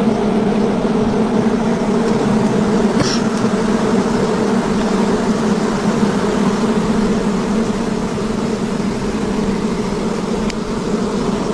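Swarm of giant honey bees buzzing, a steady dense hum that holds at one pitch throughout, with a faint click about three seconds in and another near the end.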